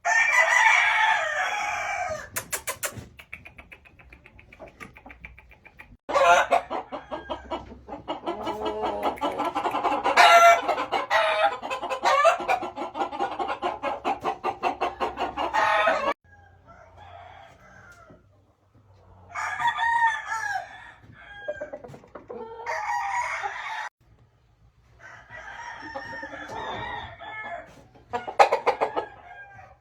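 Gamefowl roosters crowing again and again, the crows overlapping through a long busy stretch in the middle, with clucking between them.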